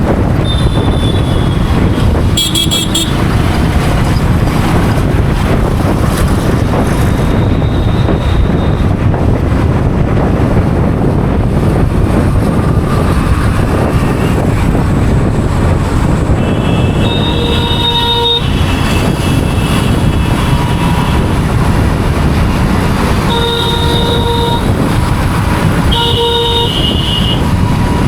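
Traffic horns honking over a steady low rumble of wind and road noise on a motorcycle ride. There are a couple of brief toots near the start and three clear horn blasts, each about a second long, in the second half.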